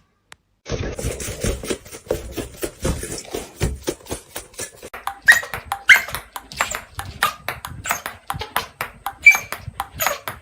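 A dog moving about and playing: a rapid run of taps and scuffles that starts suddenly under a second in, with a few short high yips or squeaks in the second half.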